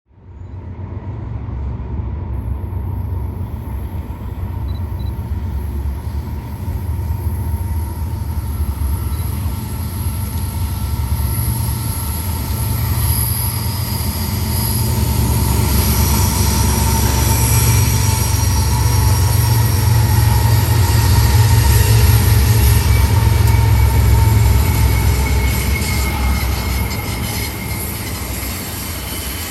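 Railroad cars rolling past with a heavy low rumble and thin, high steel-wheel squeals. The sound cuts in abruptly, grows louder to a peak about three-quarters of the way through, then eases off.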